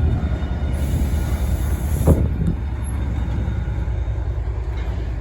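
Class 68 diesel locomotive's engine running with a steady low rumble. A hiss comes in about a second in and lasts about a second and a half, and a single knock sounds about two seconds in.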